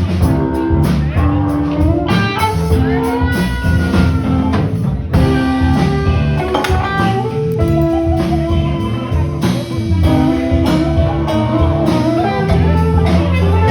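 Live music led by a guitar, with sustained notes and a rising slide over a continuous backing.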